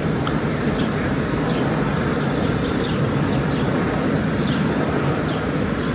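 Steady rushing noise, with small birds chirping high above it many times.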